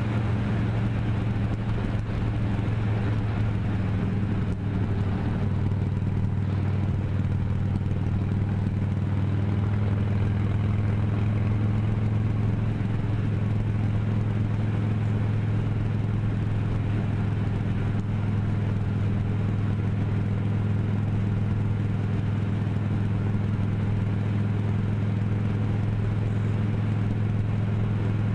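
Vehicle engine droning steadily at an even pitch while driving at a constant speed.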